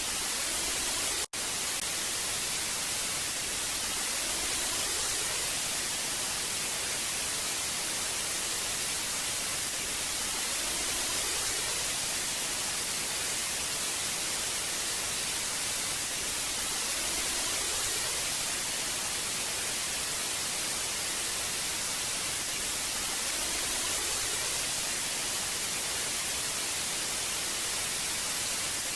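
Old analog TV static: a steady hiss, brightest in the high frequencies, with a split-second dropout about a second in.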